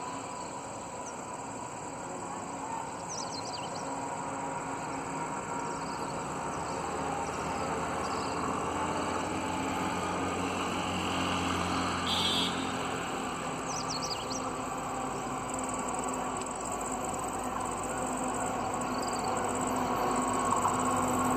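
Birds chirping now and then over a low, steady rumble of an approaching diesel-hauled passenger train, which grows gradually louder toward the end.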